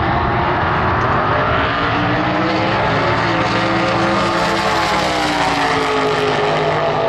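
Naturally aspirated drag racing engine of a modified altered, running loud and unbroken, its pitch climbing slowly over the first half and easing back down in the second.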